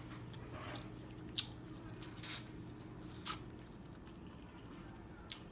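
Faint eating sounds: a few short wet mouth clicks and smacks as a person chews, over a low steady hum that drops out a little past halfway.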